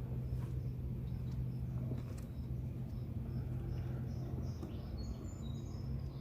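Evening outdoor ambience: a bird repeating short high chirps a few times a second, with a brief flurry of higher, sliding calls about five seconds in, over a steady low hum.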